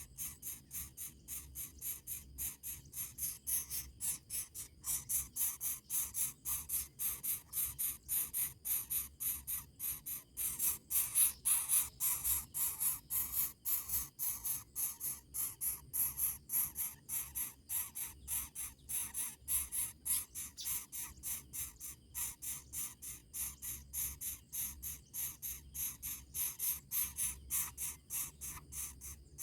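Insects chirping in a steady, even rhythm of short high-pitched pulses, about three a second, over a faint low hum.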